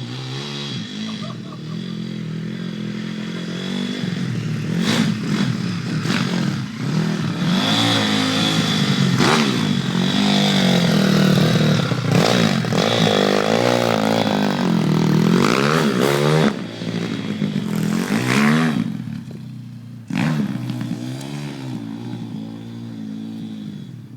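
Small four-stroke single-cylinder pit bike engines revving up and down as the bikes are ridden, rising and falling in pitch over and over. The revving is loudest through the middle, drops away about two-thirds of the way in, goes quiet briefly, then picks up again near the end.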